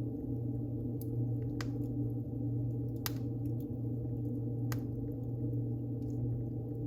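Wood fire burning in a fireplace, crackling with about four sharp pops over a steady low rumble.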